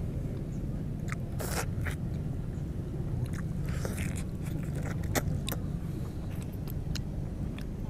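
Two people biting and chewing juicy orange segments close to the microphone, with scattered soft wet clicks and smacks over a steady low background rumble.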